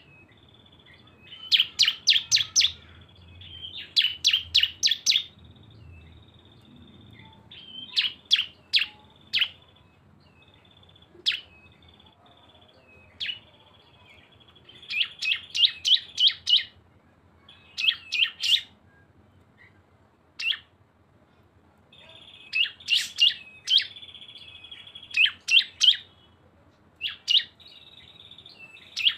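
Small songbirds, cisem and ciblek prinias, singing together in the rapid 'ngebren' style: runs of three to eight sharp, high chirps, several a second, separated by short pauses, over a thin steady high trill.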